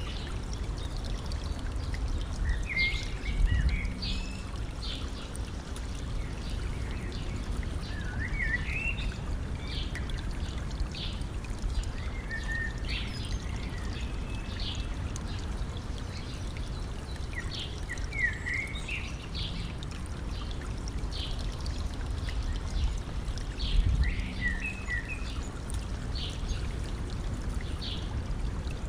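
Stream flowing with a steady rush, while a songbird sings short rising-and-falling phrases every five seconds or so, with single high chirps in between. Twice a brief low rumble rises over the water.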